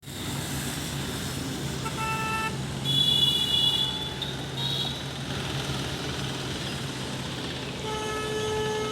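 Steady low vehicle engine hum with several short horn toots, then a longer horn tone starting near the end.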